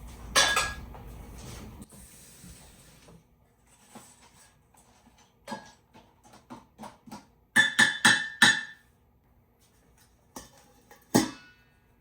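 Dog bowls and a spoon knocking and clinking during dog food preparation. There are a few separate strikes and a quick run of about four, several of them ringing briefly at a clear pitch.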